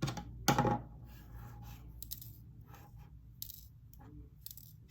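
Small plastic diamond-painting drills clattering against a plastic storage container: a sharp knock, then a louder clatter about half a second in, then scattered light ticks.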